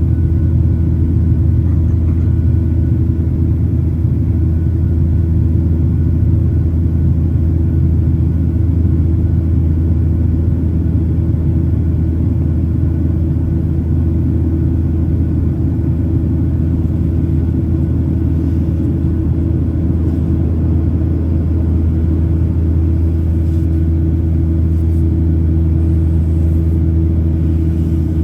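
Cabin noise of a Boeing 737-800 in flight, heard inside the cabin: the CFM56-7B engines and airflow make a steady, deep drone with a constant hum over it.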